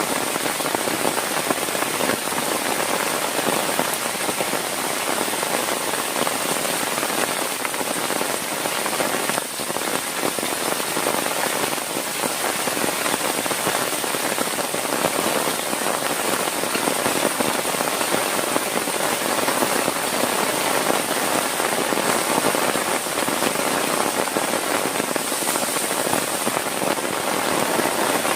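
Heavy rain falling steadily, a dense even patter of countless drops hitting a surface.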